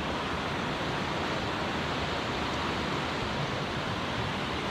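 A fast-flowing mountain river rushing steadily over its bed, an even, unbroken roar of water.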